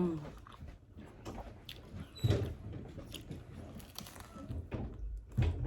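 Close-miked chewing and biting of a pizza slice: soft wet mouth clicks and small crunches, with two louder low thumps about two seconds in and near the end.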